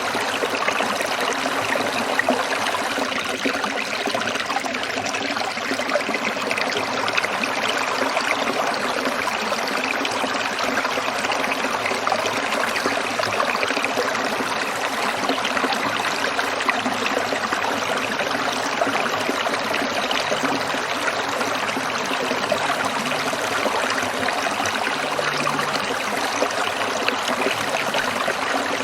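A small stream trickling and babbling over stones in a steady, even flow.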